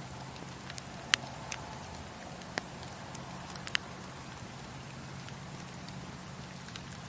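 Campfire burning with a low steady rumble and a few sharp crackles and pops, the loudest about a second in and the last at almost four seconds.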